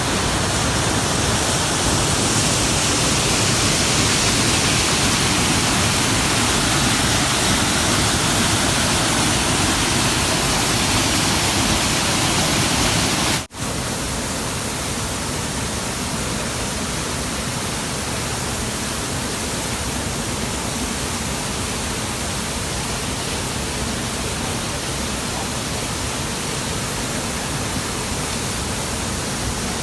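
Waterfall pouring, a steady rush of falling water. About 13 seconds in it cuts out for a split second and comes back slightly quieter.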